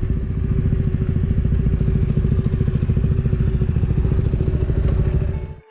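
Motorcycle engine running steadily at low revs with an even pulsing beat, cutting off abruptly near the end.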